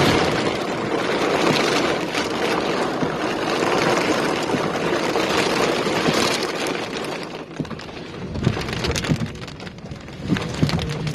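Heavy rain drumming on a moving car. About seven seconds in it eases to separate, scattered drops hitting.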